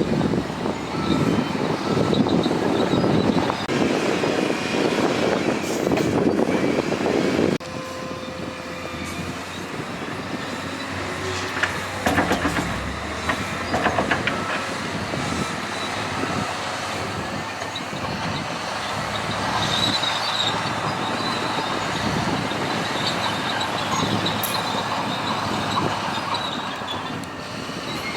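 Heavy earthmoving machinery at work: a loud diesel engine rumble that cuts off abruptly after about seven seconds, then a quieter stretch of engine noise with metallic squeals and clanks.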